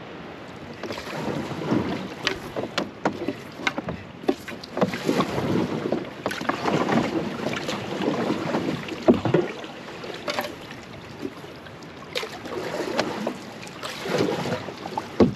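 A canoe being paddled: irregular splashing and swishing of paddle strokes in the water, with scattered sharp knocks.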